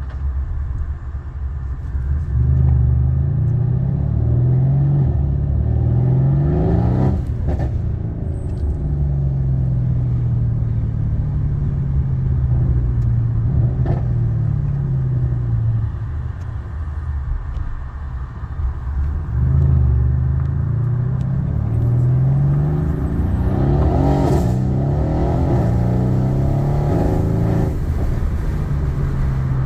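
Mercedes-AMG C63 S engine accelerating hard twice, its pitch climbing in steps through the gear changes, each run ending in a sharp crack. Between the two runs the pitch falls away slowly as the car comes off the throttle.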